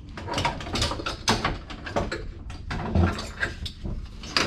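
Irregular clanks and rattles of metal being handled, several sharp knocks a second with no steady rhythm.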